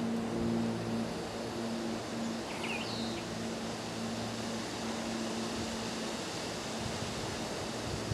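Outdoor woodland ambience: a steady background hiss with a low, steady mechanical hum, like a distant engine, that fades in and out. A few short, faint bird chirps come about two and a half to three seconds in.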